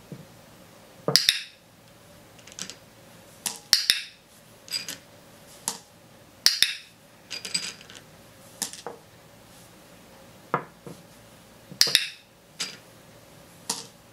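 About a dozen sharp, irregular clicks and clatters of small hard objects on a tabletop: plastic toy animals being knocked over and plastic reward jewels handled, with a training clicker's bright clicks among them.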